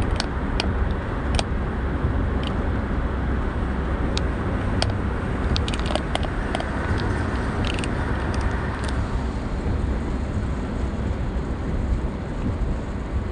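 Steady rumble of a car driving at speed, engine and tyre noise on the road. Scattered sharp clicks through roughly the first nine seconds.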